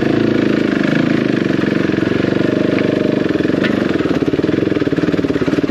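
Single-cylinder dual-sport motorcycle engine running with a steady, rapid pulsing beat while riding slowly over rough ground.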